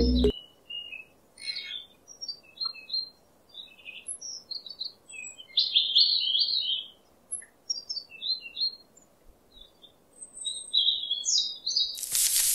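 Small birds chirping in short, scattered high calls, with a short burst of hiss near the end.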